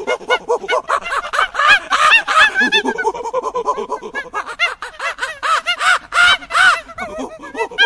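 A flock of birds calling, many short, rising-and-falling calls overlapping densely.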